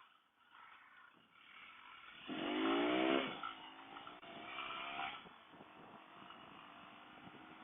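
Lifan Xpect motorcycle engine revving up under acceleration twice, its pitch rising each time; the first pull, about two seconds in, is the louder, and the second follows a second or so later.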